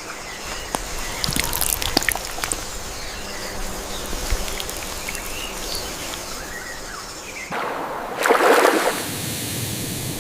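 Water trickling and sloshing, with many small drips and ticks, and a louder surge of about a second some eight seconds in.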